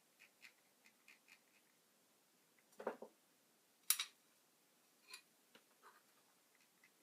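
Scattered small clicks and taps of things being handled, with a short louder clatter about three seconds in and a sharp click a second later.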